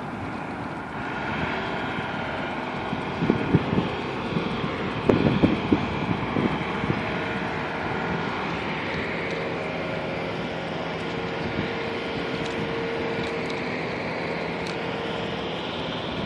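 Wind buffeting the microphone on a moving bicycle over a steady vehicle hum, with a few louder thumps about three to six seconds in.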